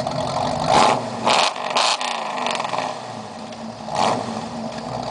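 1982 GMC pickup's Chevy small-block V8 idling through a new full custom exhaust, blipped three times in quick succession about a second in and once more near the end.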